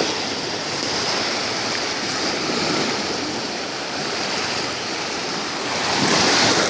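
Sea surf washing steadily, with a wave surging louder about six seconds in.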